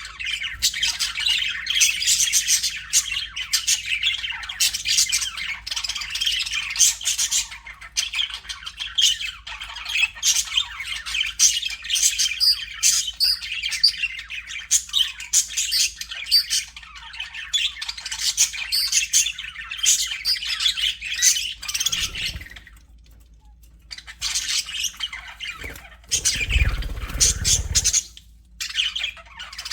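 A flock of budgerigars chattering and chirping in quick, overlapping warbles and squawks, with a short lull about three-quarters through. A brief low rumble comes near the end.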